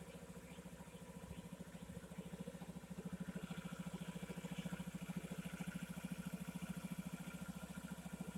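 Honda Ruckus scooter's 49cc single-cylinder four-stroke engine idling steadily with a fast, even pulse, a little louder from about three seconds in.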